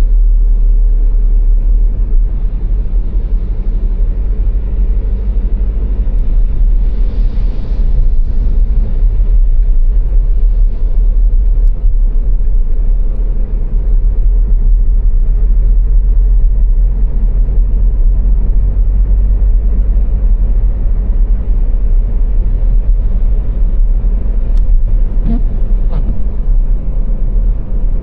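Car driving at speed on the autobahn: a steady, deep road rumble of tyres and engine. A brief rush of hiss rises and fades about seven seconds in, and a couple of faint clicks come near the end.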